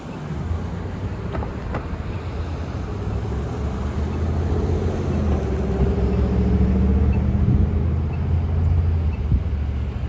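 A motor vehicle driving past on the road: a low engine hum with a steady drone that builds to its loudest about six to eight seconds in, then eases off.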